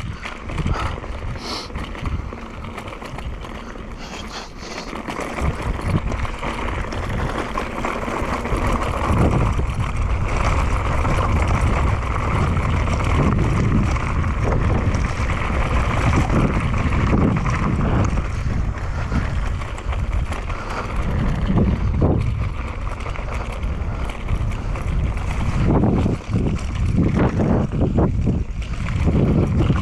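Mountain bike rolling down a dirt trail: tyres crunching over the ground and the frame rattling over bumps, with wind buffeting the camera microphone.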